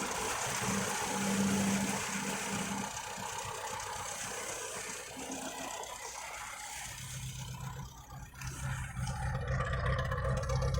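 Carbureted engine idling steadily, running on a freshly cleaned carburetor fitted with a new repair kit. Its hum drops lower and steadier about seven seconds in.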